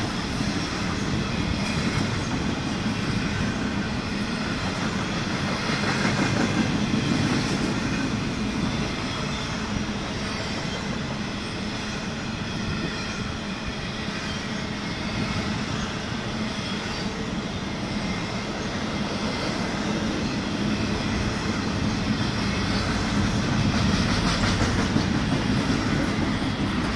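Freight train cars rolling past: a steady rumble of steel wheels on rail, swelling slightly about six seconds in and again near the end.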